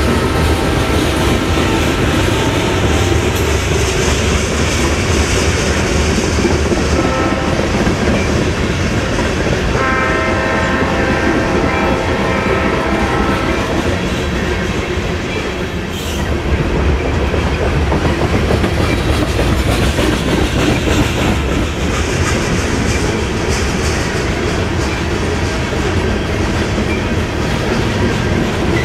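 BNSF covered-hopper grain train rolling past at track side: a steady rumble and clatter of the cars' wheels on the rails. A steady high tone rides over it for a few seconds about ten seconds in. The sound dips briefly about halfway through.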